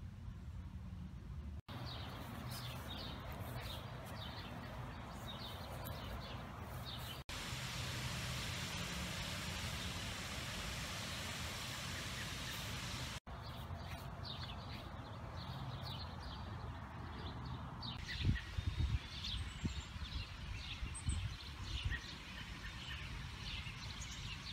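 Small birds chirping over and over, with a steady hiss filling the middle stretch and a few low thumps on the microphone in the last several seconds.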